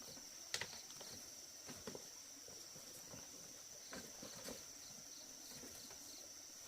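Insects trilling in a steady, high, thin drone, with a few scattered light knocks, the sharpest about half a second in.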